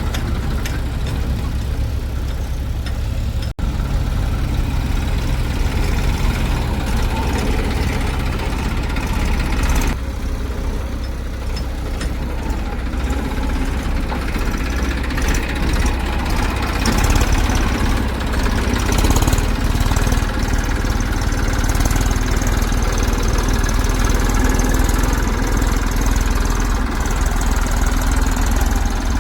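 Diesel engines of a backhoe loader and tractors running steadily, with sudden breaks about three and a half and ten seconds in.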